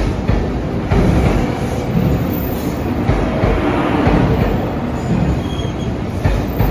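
Train running on rails, with steady wheel and rail noise and brief high-pitched wheel squeals partway through.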